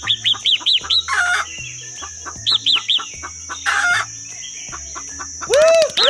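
Chickens clucking, with rapid repeated high chirps and longer rooster-like calls; a louder call comes near the end.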